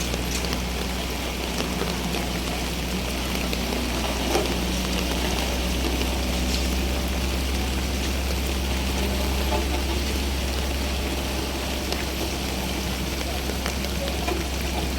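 Steady wash of rain and running water over a low, constant engine rumble from a vehicle or machine.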